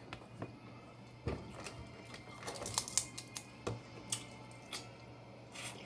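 Snow crab leg shells crunching and cracking as they are eaten close to the microphone: a string of irregular sharp clicks and snaps, bunched together about halfway through and again near the end.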